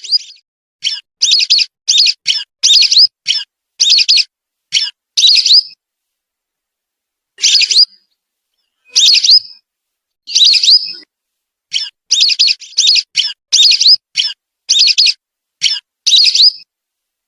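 Whistling duck (belibis) calls used as a bird lure: short, shrill, upward-sliding whistles repeated in quick runs, with pauses of a second or two between runs.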